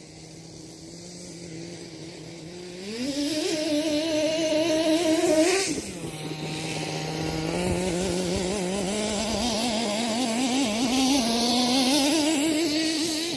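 Kyosho Mad Force nitro RC monster truck's two-stroke glow engine running: it holds a low steady note, revs up for a few seconds, drops back about six seconds in, then climbs again with a wavering pitch as the throttle is worked.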